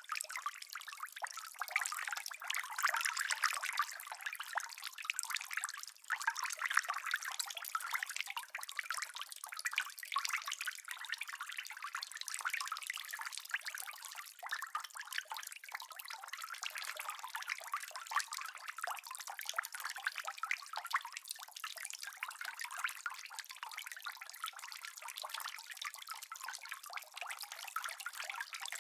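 Steady rain: a dense, even spray of fine drops and drips, all high and hissy with no low rumble or thunder.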